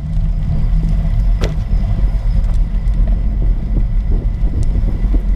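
Steady low rumble of wind buffeting the microphone while riding a bicycle, with a single sharp click about a second and a half in.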